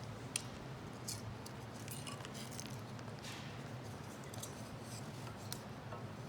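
Wood fire crackling in a homemade wood-burning can stove, with scattered sharp pops and ticks; the loudest pop comes a little under half a second in.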